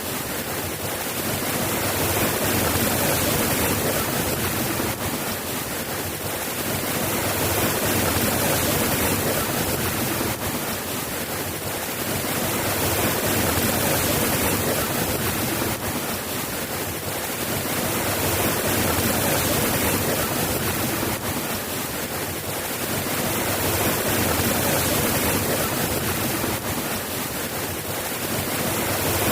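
Steady rain falling, an even hiss that swells and eases gently every five or six seconds.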